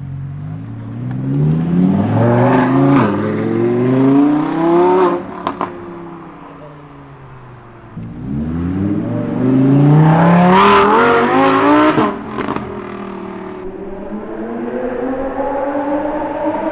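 Supercar engine accelerating hard twice, each time climbing in pitch with a break for a gear change. Sharp pops come from the exhaust as the throttle closes. Near the end the engine rises again as it pulls away.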